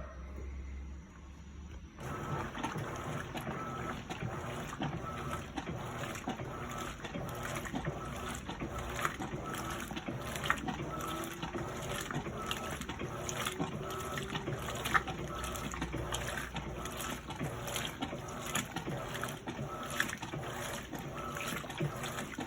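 Electrolux LPE16 washing machine with water running and splashing into its tub, starting abruptly about two seconds in.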